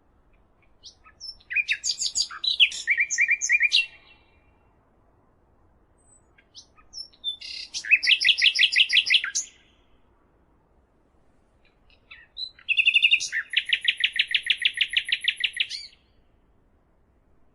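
A songbird singing three phrases, each a few seconds long, made of rapid, high trilled notes, with pauses of a few seconds between phrases.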